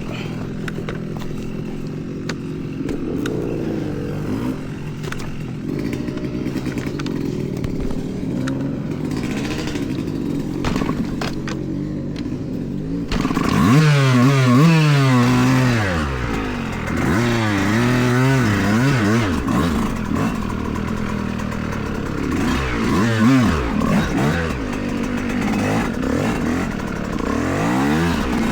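Yamaha YZ125X two-stroke dirt bike engine running along a trail, with clattering knocks over the first half. About halfway in it gets louder and revs up and down repeatedly, pitch rising and falling with each burst of throttle.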